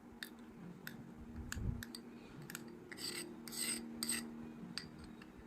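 A spoon scraping and clicking against a bowl as condensed milk is spooned into cake batter, with a denser stretch of scraping about three seconds in, over a faint steady hum.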